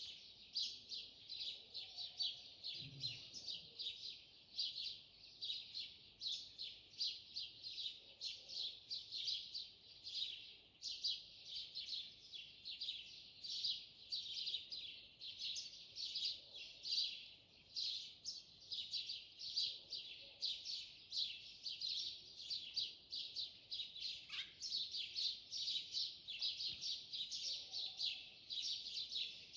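Small birds chirping and twittering rapidly and without pause, several chirps a second, with a morning dawn-chorus feel.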